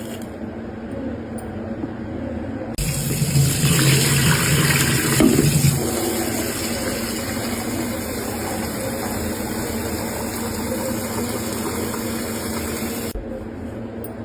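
A mini washing machine's small motor humming steadily, with water rushing and churning from about three seconds in, loudest for the first few seconds, and cutting off about a second before the end.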